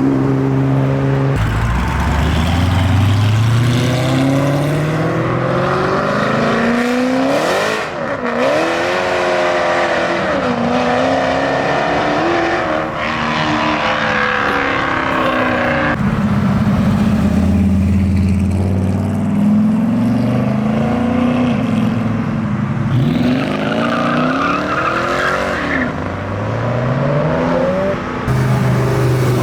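Car engines revving and accelerating hard, the pitch climbing in long rises and swinging up and down between blips of the throttle, in a few separate runs.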